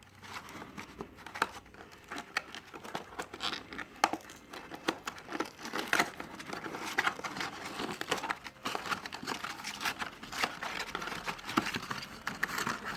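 Fireworks packaging handled by hand: plastic and paper crinkling and rustling in irregular crackles.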